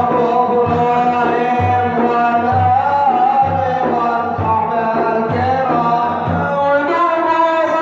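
A man singing a madih, an Arabic devotional praise song, in a long ornamented melodic line over a low drum beat that falls about once a second.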